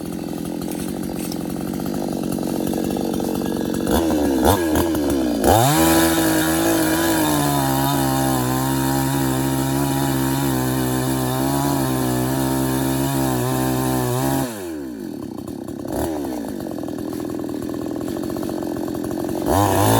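Chainsaw engine revving up about five seconds in and held at high speed for about nine seconds while cutting into a tree, then dropping back to a lower idle.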